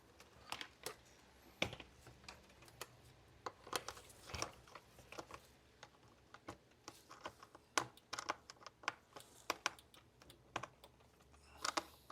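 Irregular small clicks and taps of a tool working at the plastic housing of a robot vacuum, trying to free a screw lodged in the plastic.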